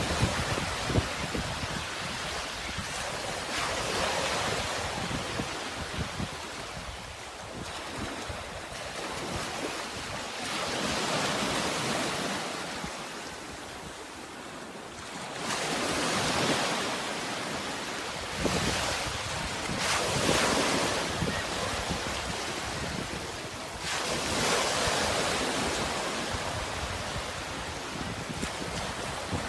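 Sea waves washing in, the surf swelling and fading every few seconds.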